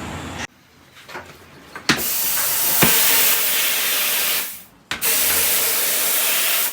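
Compressed air hissing in two long blasts, the second starting just after the first stops, with a few light knocks before them.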